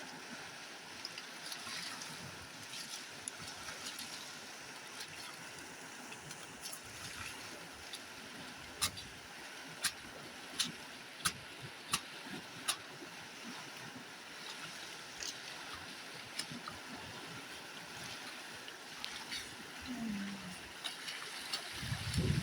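Water splashing and running steadily, with a run of six sharp clicks in the middle.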